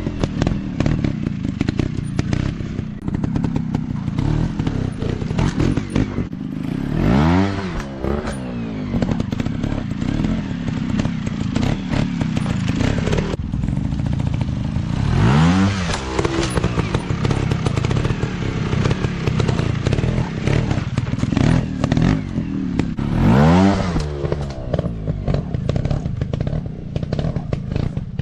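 Off-road dirt bike engines running with a rapid rattling exhaust note, the pitch swelling up and falling back in surges about every eight seconds as the bikes rev or ride past.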